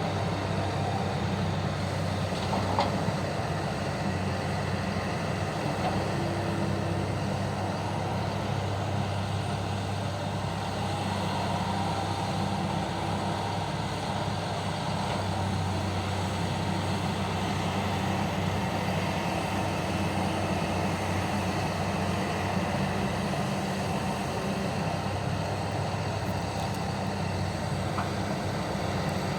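Heavy diesel engines of a mining excavator and dump truck running steadily during truck loading: a continuous low drone, with a faint knock about three seconds in.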